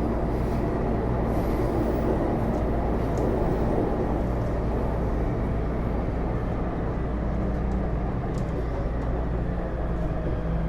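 Taipei Metro Series C301 metro car, refitted with Bombardier IGBT-VVVF traction equipment, heard from inside while it runs: steady wheel-on-rail noise with a low steady hum and little change in level.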